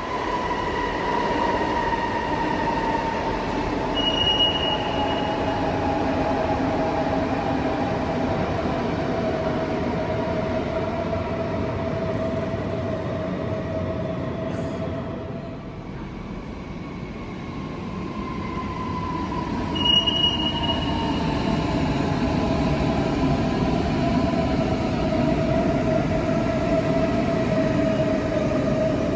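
Electric train running through a railway station, its whine falling in pitch twice over the rumble of wheels on track. Two brief high-pitched squeals come about four seconds in and about twenty seconds in.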